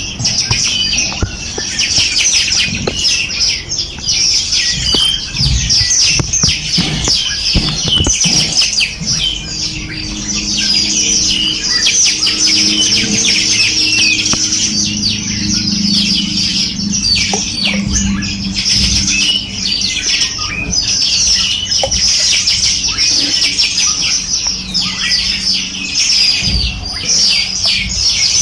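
A chorus of many small songbirds chirping and trilling at once, a dense unbroken twittering of quick high notes.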